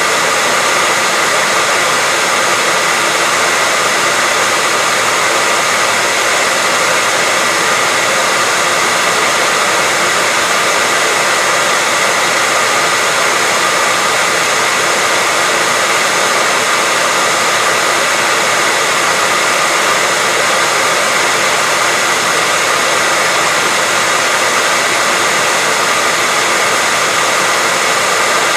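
Hair dryer running steadily, a continuous loud rush of air with a faint steady whine from its fan motor, unchanging throughout.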